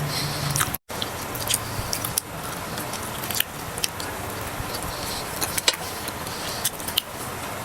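Close-up eating sounds: crisp clicks and crunches of chewing fried food, scattered irregularly over a steady background hiss.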